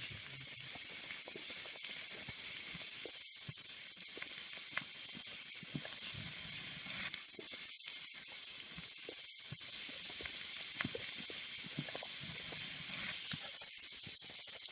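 Lamb kokoreç sizzling on a hot tin sheet over a campfire: a steady hiss with scattered pops and crackles.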